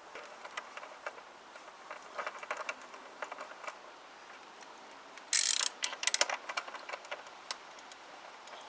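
Light metallic clicks and clinks of bolts being started by hand into a scooter's exhaust mounts, with a louder brief clatter of metal parts about five seconds in.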